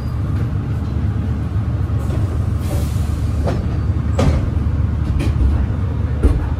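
Meitetsu local electric train running, heard from inside the passenger car: a steady low rumble with a few short knocks from the wheels and car.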